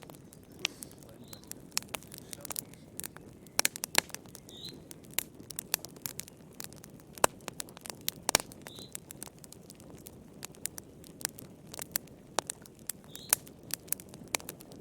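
Wood fire crackling in a fireplace: a steady low hiss of burning with frequent irregular sharp pops and snaps.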